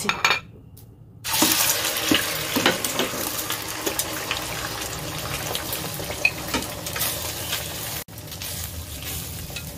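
Egg-coated tofu cubes frying in hot oil in a wok. A loud sizzle starts suddenly about a second in and carries on with scattered pops, then drops to a quieter sizzle about eight seconds in.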